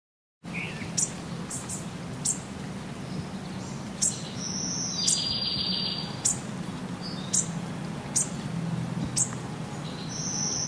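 Birds chirping: short high chirps every second or so, with a longer trill about five seconds in, over a steady low background hum.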